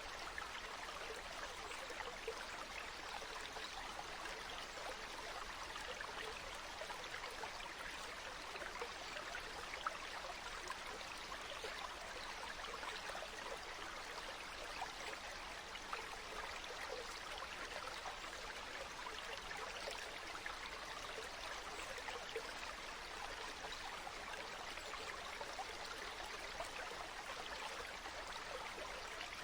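Water flowing in a small stream, a steady babble with fine splashes.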